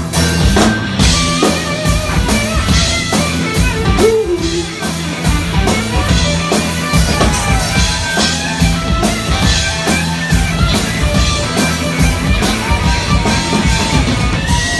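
Live rock band playing an instrumental passage: electric guitar over bass and a drum kit, with no vocals.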